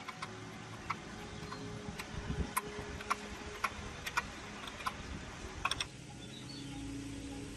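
Sharp, separate metallic clicks and taps, about one or two a second, from hand tools and parts being handled on a tractor wheel assembly. The clicks stop about six seconds in and a low steady hum takes over.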